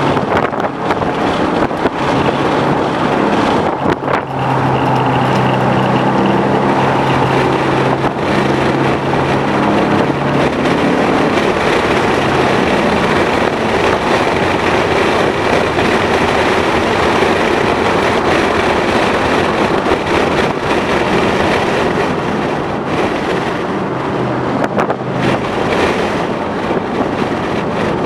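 2011 Ford Mustang GT's 5.0-litre V8 running at steady revs under way, with wind and road noise; about twelve seconds in, the engine tone fades and the wind and road noise take over.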